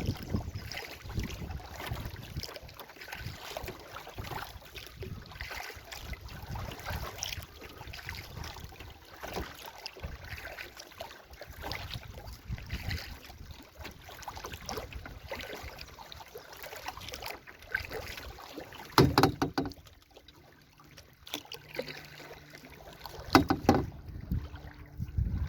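Canoe being paddled with a double-bladed paddle: repeated uneven swishes and splashes of the blades in the water. Two sharp, loud knocks come late on, with a quieter pause between them.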